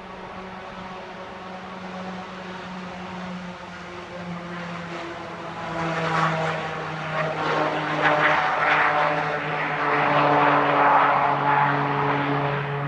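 Piaggio P180 Avanti's twin pusher turboprops running, a steady propeller hum with a whooshing rush that grows louder about halfway through, the drone dipping slightly in pitch.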